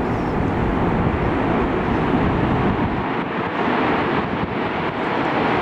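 Wind buffeting the microphone over a steady rush of aircraft engine noise. The low gusty rumble eases about three seconds in.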